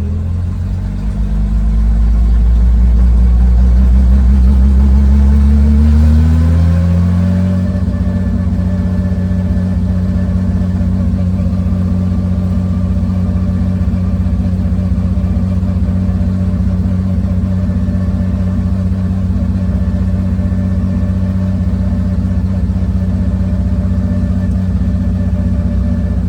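1973 Porsche 911 RSR race car's air-cooled flat-six engine accelerating, its pitch rising for the first six seconds or so. It then eases off a little and holds a steady drone.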